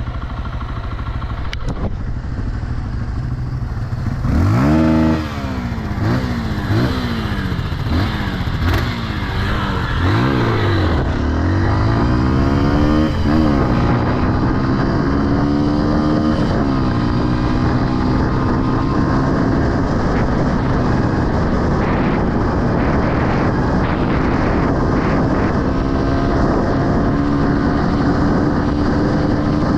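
Honda XR150L dirt bike's single-cylinder engine accelerating through the gears: the engine note climbs and drops several times in the first half as it shifts up, then holds a steady, slowly rising note while cruising.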